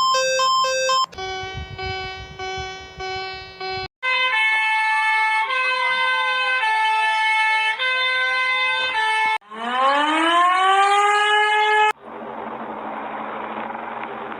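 A run of synthesized Emergency Alert System style alarm tones that change every few seconds. First come pulsing, beeping tone chords, with one tone sliding down and back up. About nine seconds in, a siren winds up in pitch, then cuts to a duller, muffled buzzing tone.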